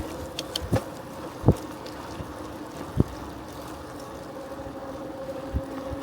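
A bicycle in motion: a steady rolling hum with some wind on the microphone, broken by three dull thumps in the first half as the bike jolts over bumps.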